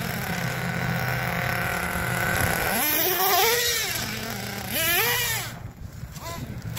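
Red Cat Earthquake 3.5 RC truck's small nitro engine running at a steady pitch, then revved up and back down three times, its whine rising and falling with each throttle blip. The engine drops quieter for a moment near the end.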